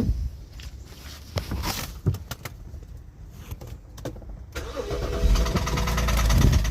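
Car engine starting about two-thirds of the way in, after a few scattered clicks, then running with a fast, even knocking: rod knock, a worn connecting-rod bearing.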